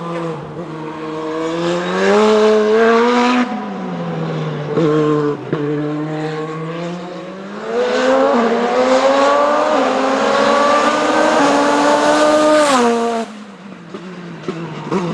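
Hillclimb race car's engine revving hard under acceleration. Its pitch climbs for about three seconds, drops sharply, then climbs again for several seconds to a high rev before it falls away and quietens near the end.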